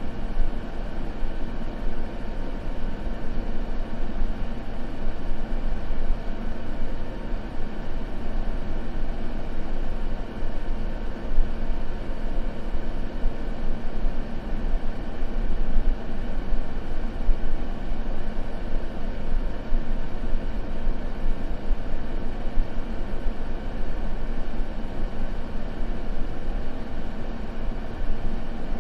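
Continuous steady white noise, even and unchanging, deeper and rumbly rather than hissy.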